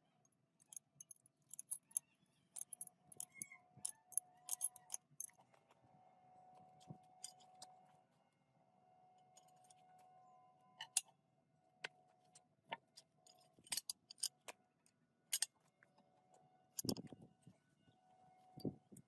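Scattered light metallic clicks and clinks, irregular and sharp, over a faint steady hum.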